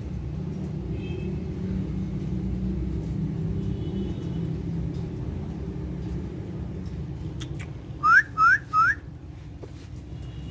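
Ringneck parrot giving three quick whistles near the end, each sliding up in pitch and curling over, over a steady low rumble.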